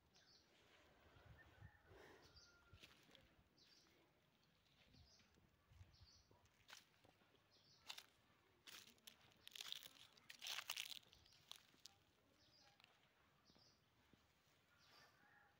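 Faint, quiet outdoor ambience: a bird giving short high chirps about once a second, with crunching footsteps on dry straw that grow louder about ten seconds in.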